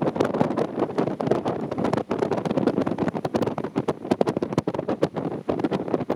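Strong gusty wind buffeting the microphone: a steady rushing roar broken by many irregular thumps.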